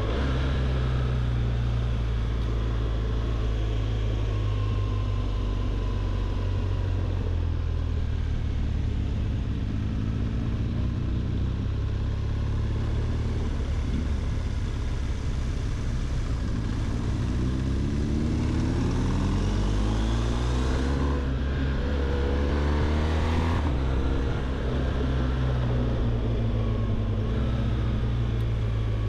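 BMW R1200 GS boxer-twin motorcycle engine running while riding, with wind and road noise. The engine note climbs in pitch several times as the bike accelerates through the gears, mostly in the second half.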